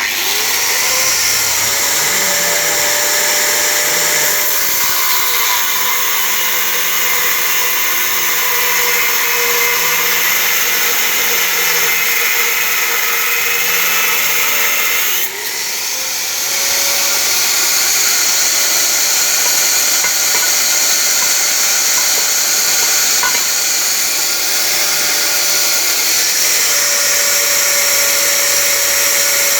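Handheld electric power tool running under load, its motor winding up at the start to a steady high whine over a dense hissing noise. It is switched off briefly about halfway through and winds up again.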